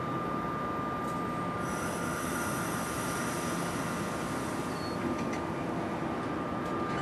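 NJ Transit Multilevel commuter train standing at the platform: a steady hum with a constant high whining tone. Several higher whines join it about two seconds in.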